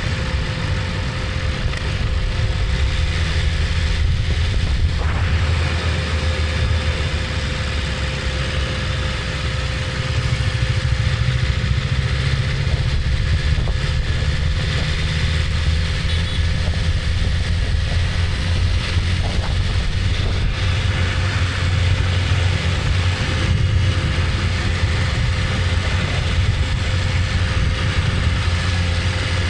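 BMW S1000RR motorcycle's inline-four engine running at a steady, fairly constant note, with a slight lift in level about ten seconds in.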